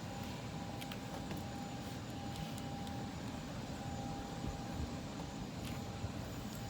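Steady low rumble of a distant aircraft jet engine running, with a thin steady whine above it and a few faint ticks.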